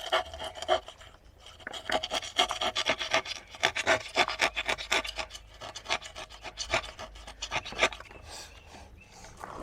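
Quick, repeated back-and-forth strokes of a hand tool rasping at the edge of a vent opening being cut in a motorhome's interior panel. The strokes stop about eight seconds in.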